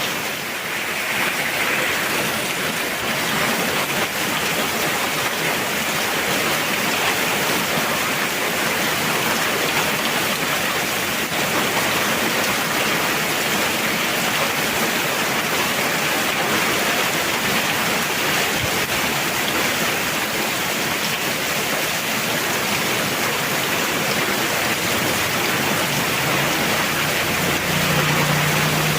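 Heavy rain falling in a steady, even downpour. A faint low hum comes in near the end.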